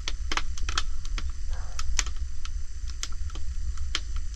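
Oak firewood fire crackling, with irregular sharp snaps and pops several times a second over a steady low rumble.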